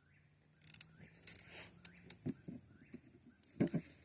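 Rustling followed by several light knocks and clunks, as of things being handled and set down, with a double knock near the end. A bird chirps faintly and repeatedly in the background.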